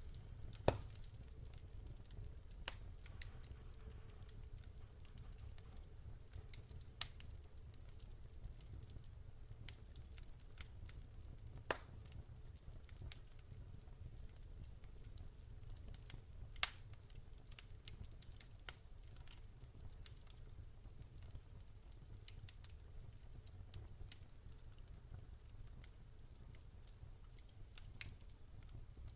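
Campfire burning with a steady low rumble and scattered sharp crackles and pops, the loudest about half a second in, near the middle and just after.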